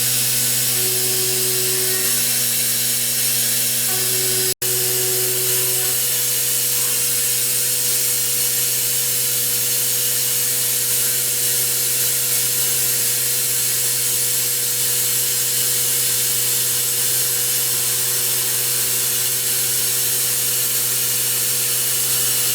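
CNC machine running: a steady hiss of cutting over a constant spindle hum with a few held tones, one of them coming and going during the first few seconds. The sound cuts out for an instant about four and a half seconds in, then carries on unchanged.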